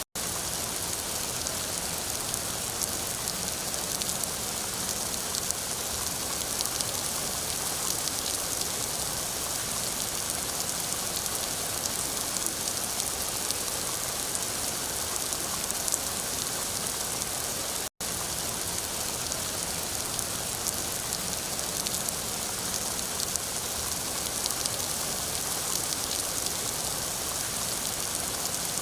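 Steady rain falling and pattering on a surface, a dense even hiss with fine drop ticks. It cuts out for an instant about two-thirds of the way through.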